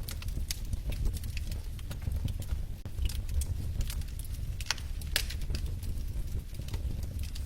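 Fireplace fire crackling: scattered sharp pops and snaps over a steady low rumble, with a couple of louder pops a little past the middle.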